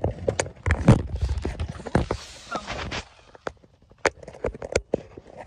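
Eating sounds close to the microphone: irregular sharp clicks of chewing and lip-smacking, with a stretch of rustling in the first half.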